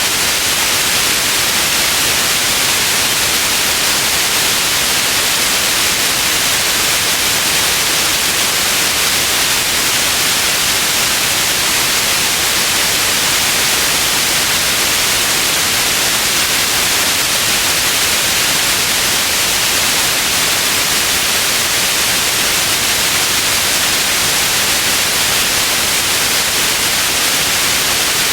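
Steady white noise: an even, unchanging hiss, brighter in the upper range.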